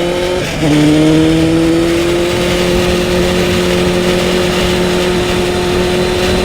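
Honda CBR600 F3's inline-four engine pulling under way: the revs drop with an upshift about half a second in, then climb slowly and settle to a steady pitch, with wind rush over the helmet.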